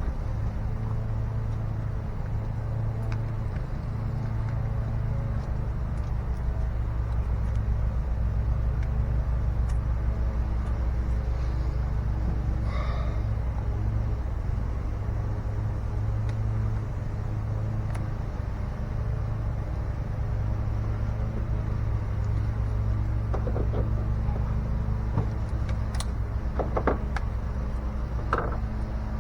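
A steady low motor or engine drone, even throughout, with a few light clicks and knocks near the end.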